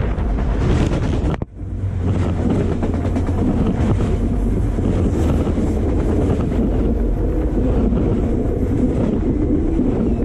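Autorack freight train cars rolling directly over the camera: a loud, continuous rumble and rattle of steel wheels on the rails and the cars' undercarriage. The sound drops out sharply for a moment about a second and a half in, then the rumble carries on.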